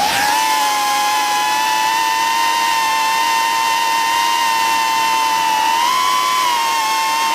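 Small quadcopter drone's motors and propellers whining steadily in flight, the pitch stepping up slightly about six seconds in.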